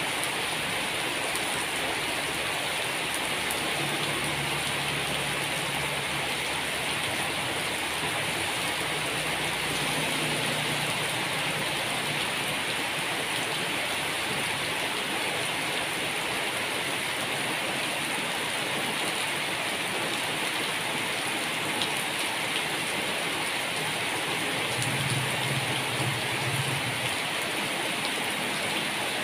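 Steady rain falling on a wet asphalt road, an even hiss of drops splashing. A faint low hum comes and goes a few times under the rain, strongest near the end.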